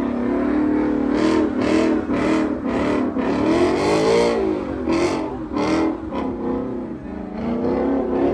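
Vehicle engine revving repeatedly, with one longer rev that climbs and falls in pitch about four seconds in.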